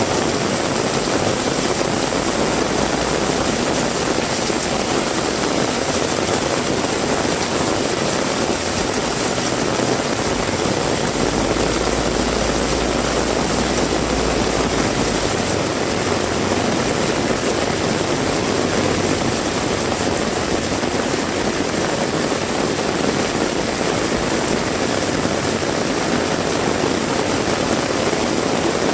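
Heavy rain pouring down steadily, with a low rumble for a few seconds from about eleven seconds in.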